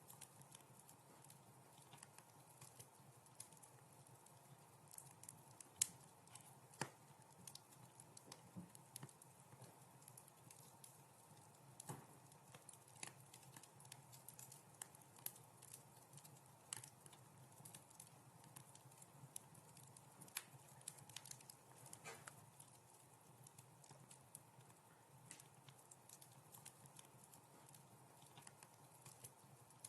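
Wood fire crackling in a fireplace: faint, irregular sharp pops and snaps over a low steady background, with a couple of louder pops about six and seven seconds in.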